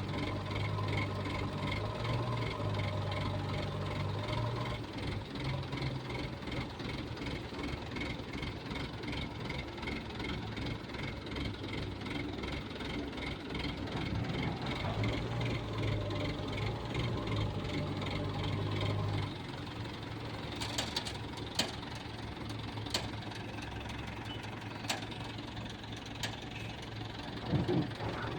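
Excavator's diesel engine running, its note rising for stretches as the machine works and then easing off. Several sharp knocks are heard in the last several seconds.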